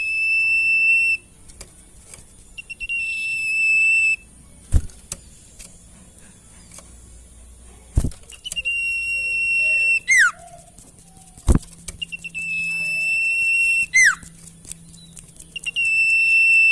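Sirtu bird song: long, steady, high whistled notes repeated five times with short gaps. Three of the notes end in a quick downward-sliding whistle. A few sharp clicks fall between the phrases.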